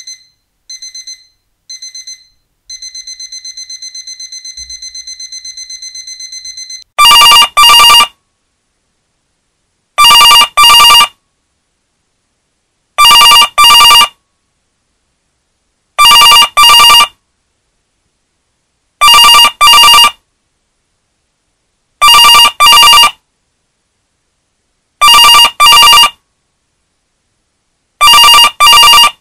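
An alarm clock beeps for about the first seven seconds, first in short groups and then in fast, unbroken beeping. It cuts off, and a telephone starts ringing in double rings, one pair about every three seconds, louder than the alarm.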